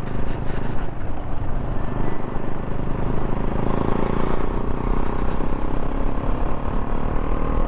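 KTM 390 Adventure's single-cylinder engine running steadily while riding, mixed with wind rush on the helmet-mounted microphone; a faint engine note comes up about halfway in.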